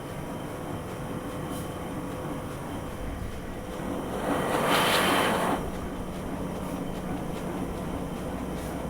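Heidelberg Speedmaster SM 52 four-colour offset printing press running steadily, a mechanical hum with a few steady tones. Just before the middle, a louder rushing hiss rises for about a second and falls back.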